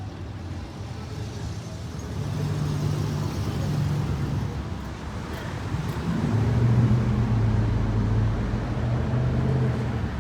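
Car engines running low as vehicles pass, swelling louder about two seconds in and again, more strongly, about six seconds in.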